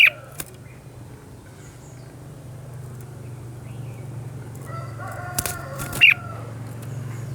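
A rooster crowing in the background, one long held crow near the end, with short, sharp, loud bird notes, typical of a red-whiskered bulbul, at the very start and about six seconds in. A steady low hum runs underneath.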